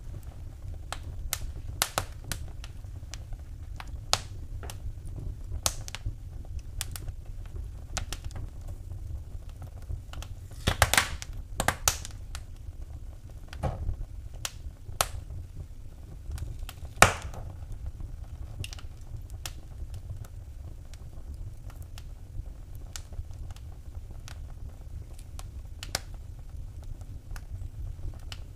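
Fire in a fireplace crackling: irregular sharp pops and snaps, with a few louder pops about a third of the way in and again past the middle, over a low steady rumble.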